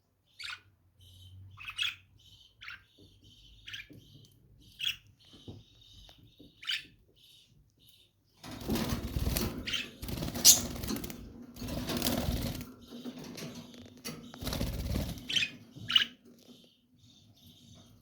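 Lovebirds giving short, sharp chirps, several a few seconds apart. About halfway through there are several seconds of loud flapping and rustling.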